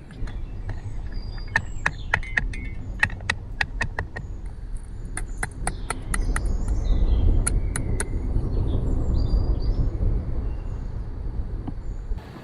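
A low, steady rumble that swells around the middle, with a run of irregular sharp crackles for most of the first eight seconds and faint bird chirps over them.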